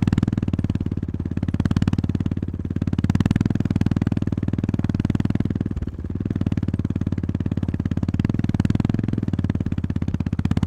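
Honda GB350S's air-cooled single-cylinder engine running under way, a rapid even pulse of firing strokes whose level rises and falls, with a short dip about six seconds in.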